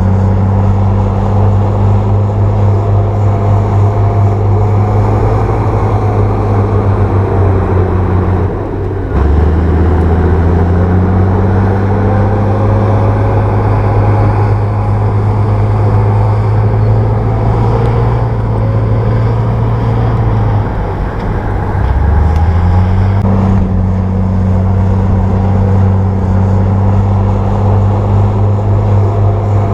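Diesel engine of a Komatsu bulldozer running steadily under work. Its note dips briefly about nine seconds in and again about twenty-two seconds in, then picks back up.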